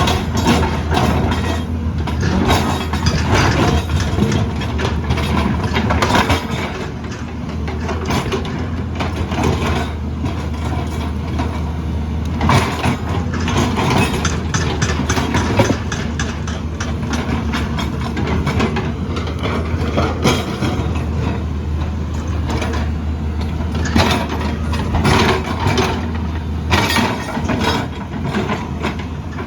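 Heavy diesel construction machinery running steadily, with frequent metallic clanks and scraping throughout.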